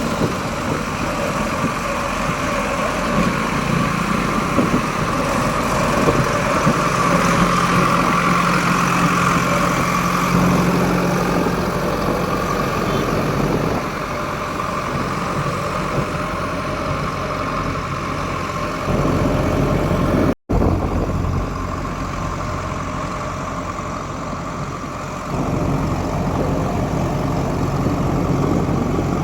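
Heavy diesel engine running steadily, with a brief gap and sudden level jumps about a third and two-thirds of the way through.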